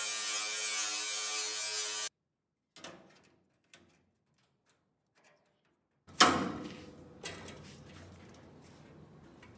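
Electric grinder running on sheet metal, trimming the bottom edge of a panel, then cutting off about two seconds in. After a few faint ticks comes a sharp metal clank, with a smaller clank about a second later, each ringing briefly.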